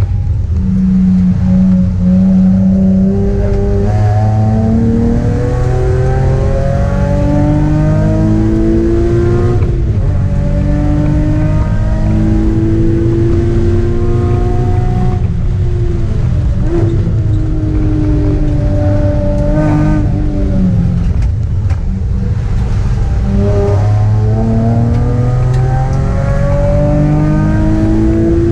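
Nissan sports car's V6 engine heard from inside the cabin under hard track driving, its note climbing steadily through each gear and dropping sharply at each shift or lift, about three times.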